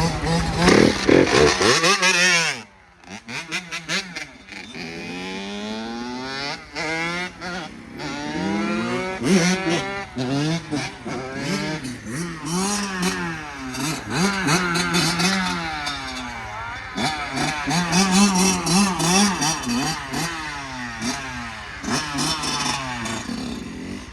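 Several dirt bikes riding past and revving, their engine pitches rising and falling and overlapping. A loud rush of noise fills the first two seconds.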